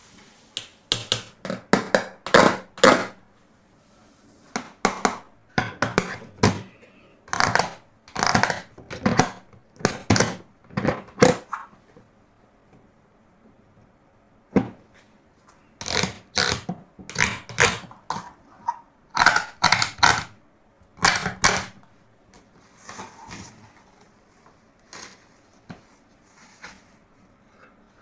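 Hard plastic toys being handled and set down: irregular clusters of sharp clicks and knocks, with gaps of a second or two between them.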